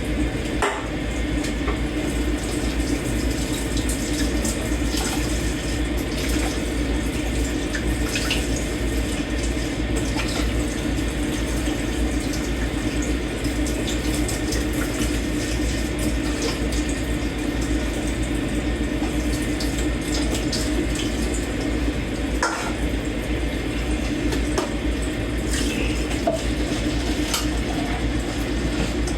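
Kitchen tap running steadily into a sink while dishes are washed by hand, with a few light clinks of dishes and cutlery.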